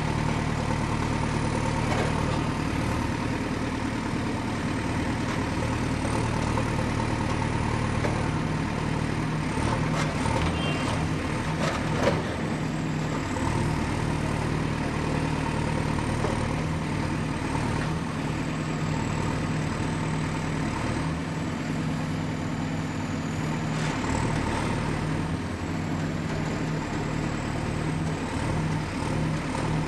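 Excavator's diesel engine running steadily while working, with a few sharp metallic knocks about ten to twelve seconds in, the loudest near twelve seconds. A faint high whine drifts in pitch over the engine.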